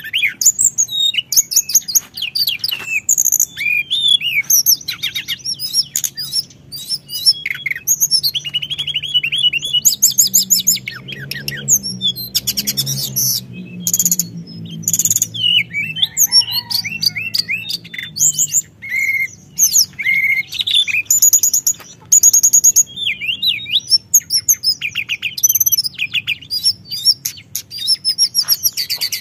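Teledekan gunung songbird singing continuously: rapid high trills and chirps run phrase after phrase with only short breaks between them.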